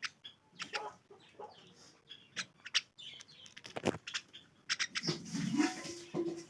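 A myna calling: scattered short clicks and chirps, then a longer, noisier call near the end.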